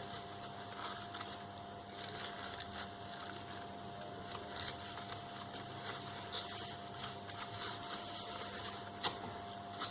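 Faint rustling and small clicks of paper and card being handled, with one sharper click about nine seconds in, over a steady low hum.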